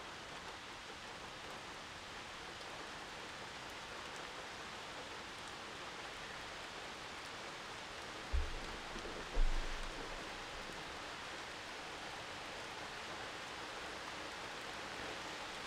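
Steady rain falling on a tin roof. Two short low thumps come about a second apart, a little past halfway.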